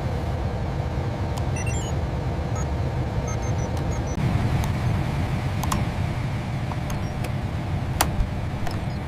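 Steady low industrial machinery rumble, with scattered sharp clicks and a few short high electronic beeps.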